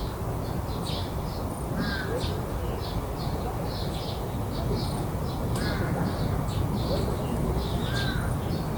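Crows cawing a few times in a garden chorus, over a fast run of short high chirps and a steady low background rumble.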